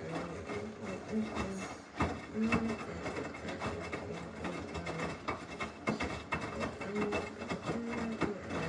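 Samsung washing machine partway through a wash cycle: short stretches of motor hum that start and stop, over a steady run of clicks and knocks from the load turning in the drum.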